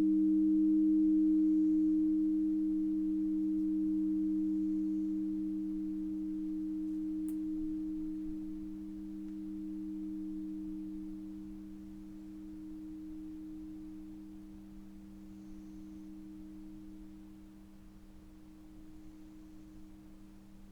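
Two pure, steady tones from a sound-healing instrument, the higher one louder, ringing out and slowly fading with a gentle waver in loudness. A faint tick sounds about seven seconds in.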